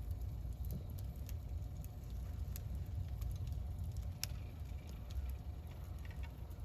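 Wood campfire burning, crackling with scattered sharp pops, the loudest about four seconds in, over a steady low rumble.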